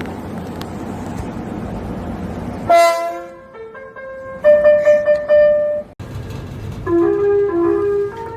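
Subway train running, then about three seconds in its electronic horn plays a short tune of several stepped notes. After a sudden cut near six seconds, another train's melodic electronic horn starts a tune of its own.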